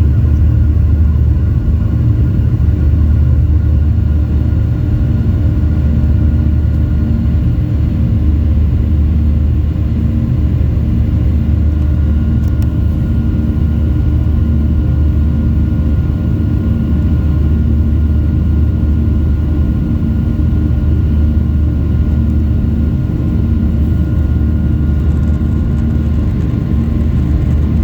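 Airplane engines running steadily as the plane taxis: a loud, even low rumble with a few steady tones above it.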